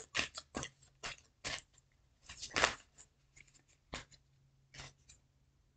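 Tarot cards being shuffled and handled: a run of sharp card clicks and slaps, several a second at first, thinning to a few scattered ones after about two seconds.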